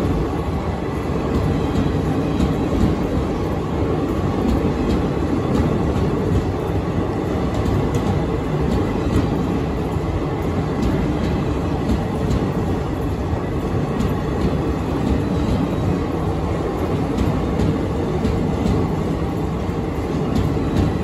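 Indian Railways passenger coaches running past close by: a steady rumble of steel wheels on the rails, with light, irregular clicks of wheels over the rail joints.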